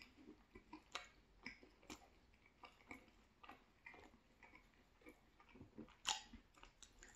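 Close-up, quiet chewing of a mouthful of thin-crust cheese pizza: soft, irregular mouth clicks and small crunches, with one louder crunch about six seconds in.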